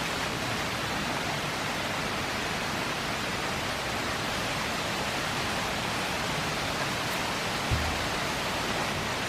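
Rushing water of a fast-flowing river or waterfall, a steady even hiss. A brief low bump about eight seconds in.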